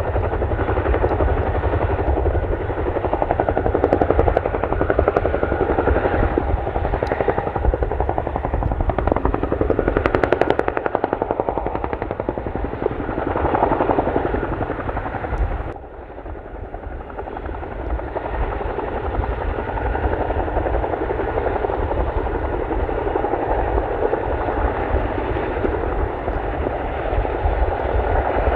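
Boeing CH-47D Chinook tandem-rotor helicopter in flight, its rotors beating in a fast, steady chop over engine noise. The sound drops briefly a little past halfway, then builds back up.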